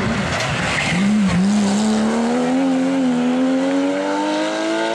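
Porsche 911 rally car's flat-six engine under load. After a brief lift about a second in, it pulls hard with steadily rising revs.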